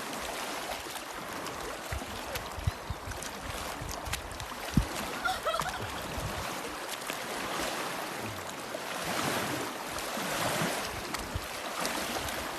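Lake water splashing and lapping around a swimmer, a steady hiss with a few soft knocks.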